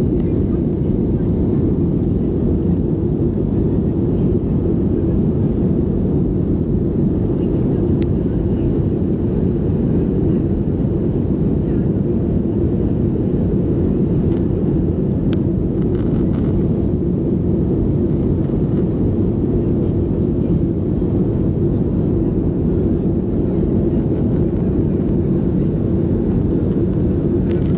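Steady cabin drone of a Boeing 737-300 in flight: the CFM56-3 engines and airflow as heard inside the passenger cabin, a deep, unchanging rumble.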